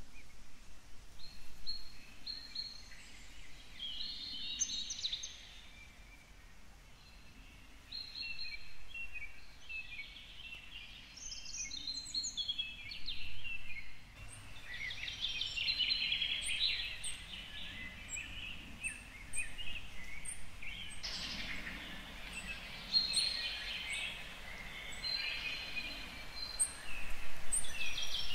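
Birds chirping and singing, many short calls overlapping, over a soft steady background hiss.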